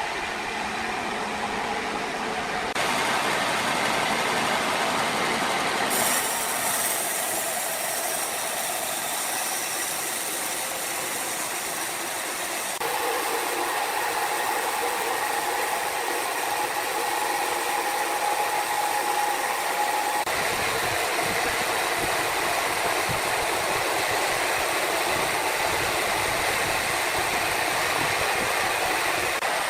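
Sawmill machinery running with a steady mechanical noise. The sound changes abruptly several times, and in the middle stretch a steady high tone sounds for several seconds.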